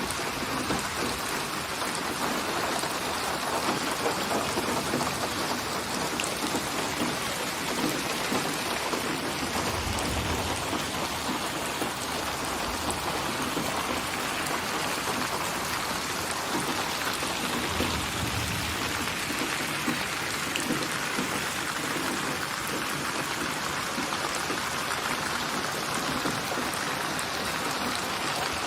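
Steady rainfall, a dense even hiss of drops on surfaces. Two brief low rumbles rise under it, about a third of the way in and again a little past halfway.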